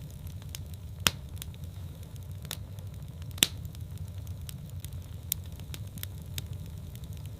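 Wood fire burning in a fireplace: a steady low rumble with irregular crackles and pops, two sharper pops about a second in and near the middle.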